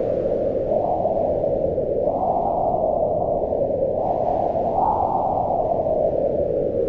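Howling mountain wind: a steady low rush whose pitch swells and sinks with the gusts, rising highest about two and five seconds in.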